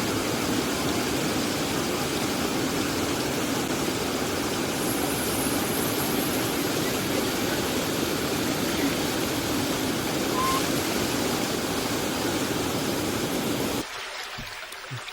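Steady rush of river water running over small falls, cutting off suddenly near the end.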